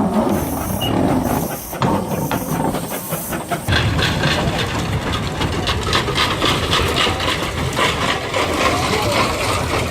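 Steam locomotive passing, hissing steam. From about four seconds in comes a steady run of rhythmic exhaust chuffs.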